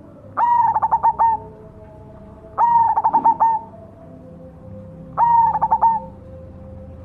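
Cemani zebra dove (perkutut) singing its cooing song: three phrases about two and a half seconds apart, each a quick, stuttering run of rolled coos lasting about a second.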